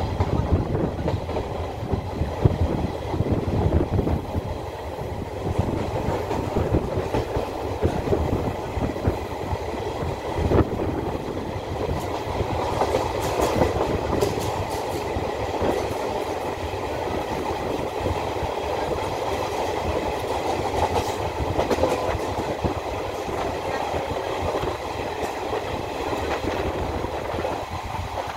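Indian Railways passenger coach running along the track, heard from its open doorway: a steady rumble of wheels on rail with irregular clacks over rail joints, and one sharp knock about ten seconds in.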